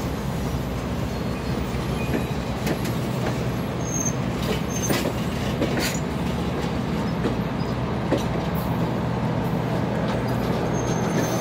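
Passenger train cars rolling slowly past: a steady rumble of wheels on rail with scattered clicks and a few short, high wheel squeals.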